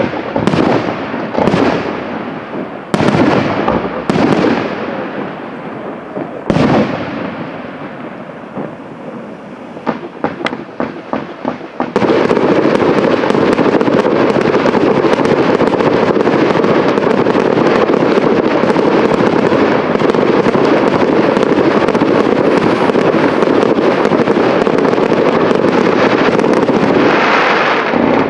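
Fireworks display: several shells burst with loud bangs, each fading away in crackle and echo. About ten seconds in comes a run of quick pops. At about twelve seconds a dense, unbroken crackling and hissing takes over from ground fountains and crackling stars.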